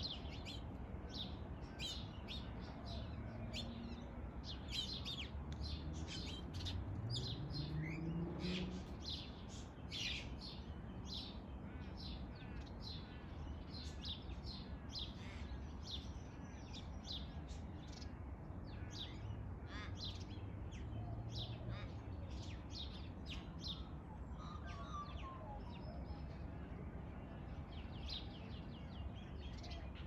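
Small birds chirping in a tree: many short high chirps in quick succession, thinning out in the middle and picking up again near the end.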